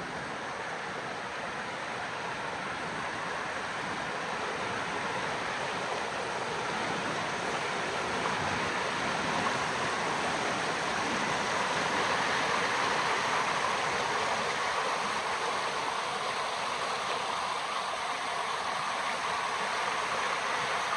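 River water rushing in a steady, even wash that grows gradually louder over the first half.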